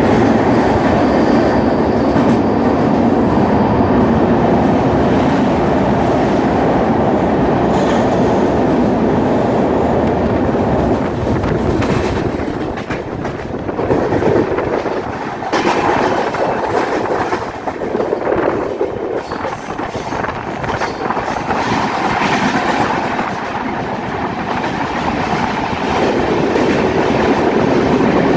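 Passenger train coaches running along the track, heard from on board: a steady loud rumble of wheels on rails with occasional knocks, easing and becoming more uneven about twelve seconds in.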